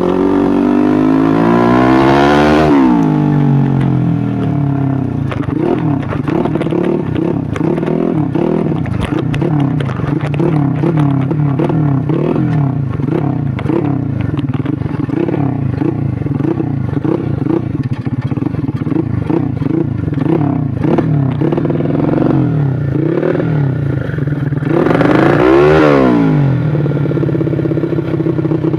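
Modified Yamaha Jupiter Z 130cc underbone motorcycle's single-cylinder four-stroke engine, revved up and down repeatedly: a big rev about two seconds in and another near the end, with many short throttle blips between. Rattling clatter runs along with it.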